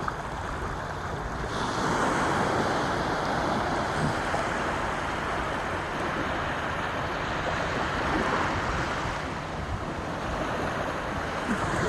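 Sea waves washing onto a beach, a steady rushing that swells about a second and a half in and again near the end.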